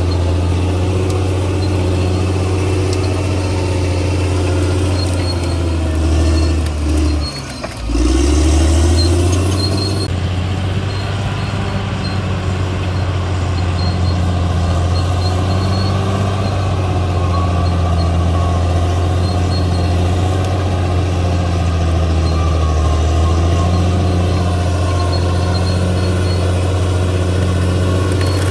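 CAT D6R XL bulldozer's diesel engine running steadily under load. About seven seconds in, the engine note briefly drops and then picks back up, followed by a short hiss.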